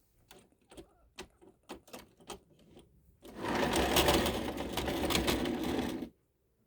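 A few light clicks and knocks, then a Tri-ang model railway locomotive runs along its track with a steady whirring, rattling motor sound for about three seconds before it cuts off suddenly.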